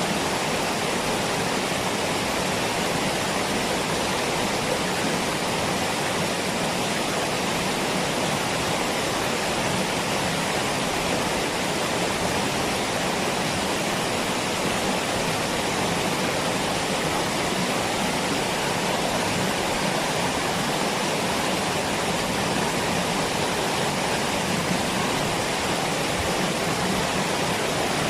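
Waterfall: falling water rushing steadily, an even unbroken roar with no breaks or single splashes.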